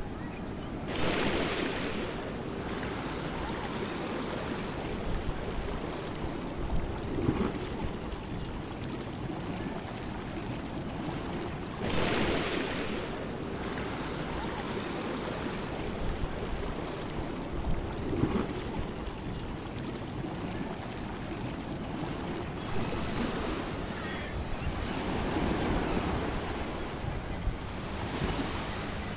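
Sea surf: a steady wash of waves with several louder crashes as waves break, the biggest about a second in and again about twelve seconds in.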